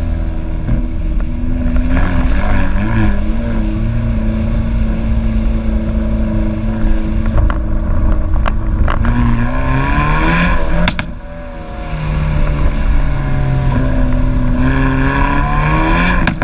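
Hyundai i30N's 2.0-litre turbocharged four-cylinder engine under hard driving, revs climbing and falling through gear changes. A few sharp exhaust bangs come about eight and ten seconds in; the revs drop off briefly just after, then climb again.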